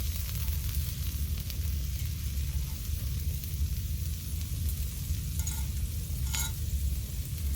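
Food sizzling as it fries, a steady hiss with a few faint crackles, over a steady low rumble.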